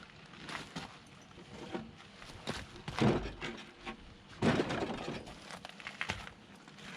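Heavy 6x6 pine timbers knocking together as they are handled, with a scatter of lighter knocks and two loud thuds about three and four and a half seconds in.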